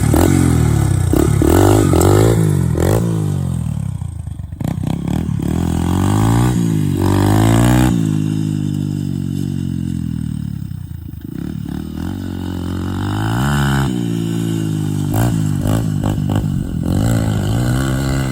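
Dirt bike engine being ridden around a long berm turn, the pitch repeatedly climbing and dropping with throttle and gear changes. Loudest near the start, it eases off around the middle and grows louder again toward the end.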